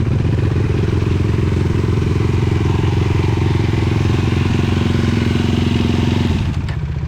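Single-cylinder 450 sport quad engine running steadily at an even speed, easing off about six seconds in.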